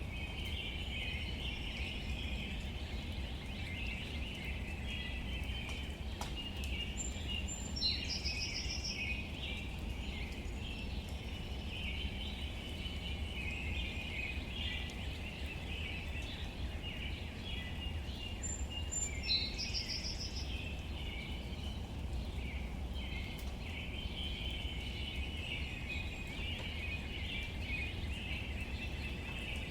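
Outdoor nature ambience: a dense, continuous chorus of small chirping calls, with a louder bird call about 8 seconds in and again about 19 seconds in, over a low steady rumble.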